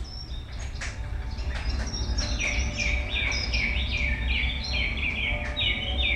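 Birdsong from a nature recording played back through a two-channel mini system's speakers: scattered chirps, then from about two seconds in a run of repeated falling chirps, roughly two a second, over a steady low hum.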